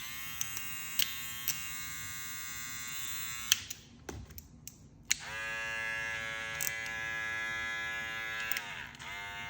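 Cordless hair clipper switched on and running with a steady buzz for about three and a half seconds, then switched off. A couple of seconds later it is run again, somewhat louder, then winds down and is switched on once more near the end.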